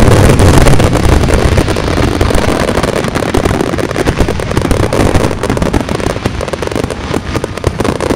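A whole fireworks show going off at once in a synchronized misfire: a continuous, loud barrage of overlapping booms and crackles with a heavy rumble, easing slightly toward the end.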